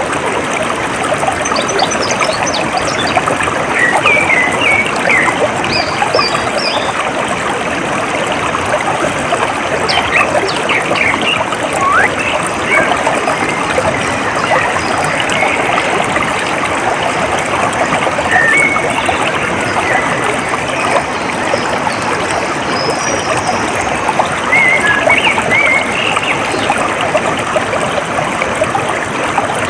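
Stream water flowing steadily, with short high bird chirps now and then over it.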